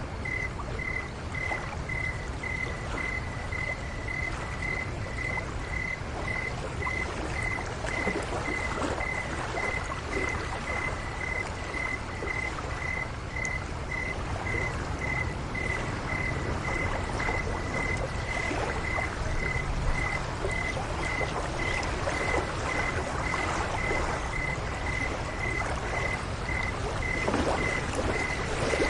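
Night ambience: a steady wash of lake water with a cricket chirping in even, regular pulses throughout.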